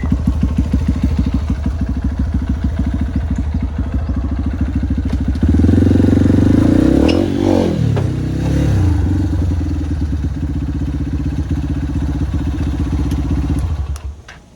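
Trail motorcycle engine running with a steady, pulsing beat; about five seconds in it gets louder and its pitch rises and falls, then it settles back to an even run. It cuts off shortly before the end.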